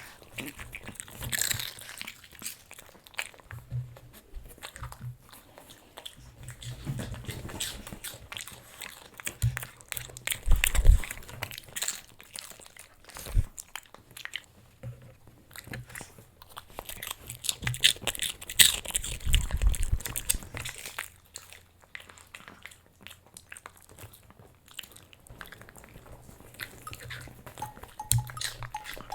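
Japanese Chin dog crunching and chewing hard treats, in irregular crunches with heavier bites now and then.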